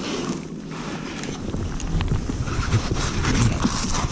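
Wind rumbling on the microphone over a kayak, with a few scattered knocks and rustles of handling.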